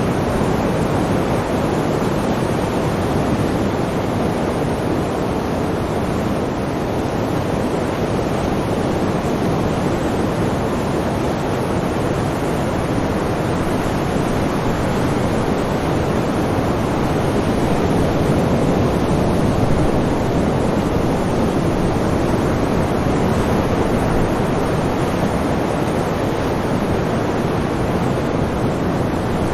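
Sea waves breaking and washing on the shore: a continuous rushing surf noise that swells slightly about two-thirds of the way through.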